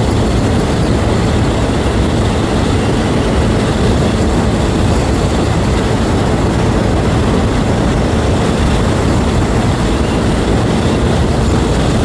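Steady loud wind rush on the microphone while riding a 125 cc motorbike at road speed, with the bike's engine running underneath. The noise comes in suddenly just before and holds evenly.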